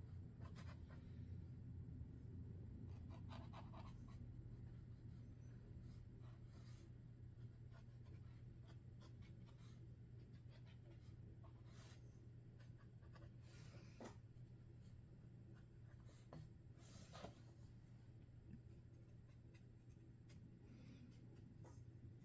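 Sharpie Creative Markers drawing on paper, faint and intermittent: short strokes and taps of the marker tips with pauses between them.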